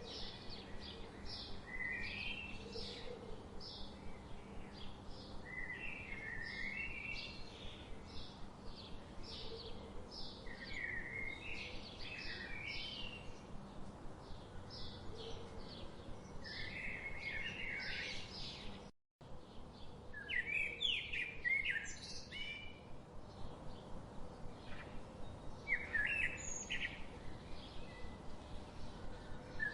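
Birds chirping: a steady series of short, high chirps about twice a second, mixed with warbling, falling song phrases. About two-thirds of the way through, the sound cuts out completely for a moment.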